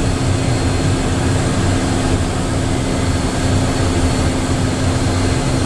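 Steady cabin noise inside a Cessna Citation business jet: jet engine and airflow noise with a constant low hum.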